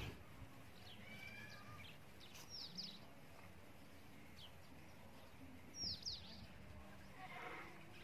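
Faint outdoor ambience with small birds chirping: a few short calls about a second in, then two quick bursts of high, falling chirps, one near the middle and a louder one about six seconds in. The peacock itself does not call.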